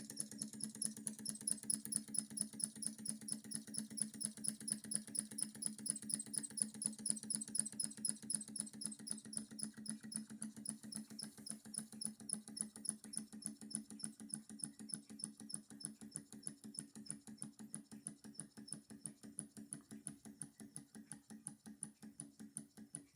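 Small hot-air beam engine and the fan it drives by pulley, coasting with no flame under it: a fast, even clicking of the mechanism over a steady low hum, fading slowly as the engine runs down.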